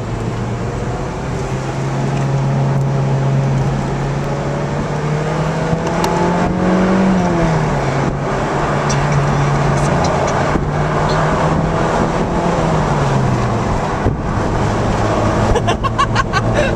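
Car engine and road noise heard from inside a car's cabin. The steady engine note climbs and then drops sharply about seven seconds in, and drops again about thirteen seconds in, as gears change. A run of sharp clicks or rattles comes near the end.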